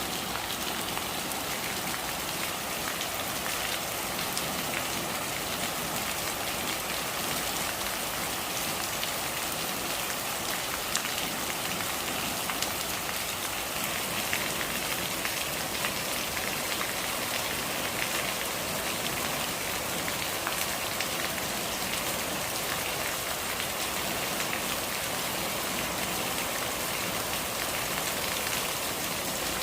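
Rain falling steadily, a continuous even hiss with many small scattered drop ticks.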